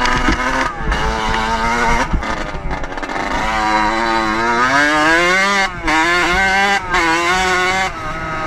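Dirt bike engine revving under load, its pitch climbing and falling as the throttle is worked, with several short dips where the throttle closes or a gear changes. Wind buffets the microphone.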